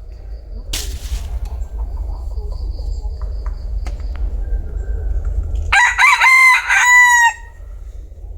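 Bantam rooster crowing once, about six seconds in: a crow of about a second and a half in several short parts ending on a held note. A brief noisy rustle about a second in, over a steady low rumble.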